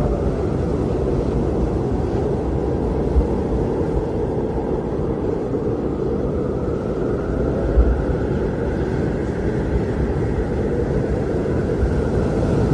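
Blizzard wind blowing hard, a steady deep rush with faint howling tones that slowly rise and fall. Two brief low thuds of gusts come about 3 and 8 seconds in.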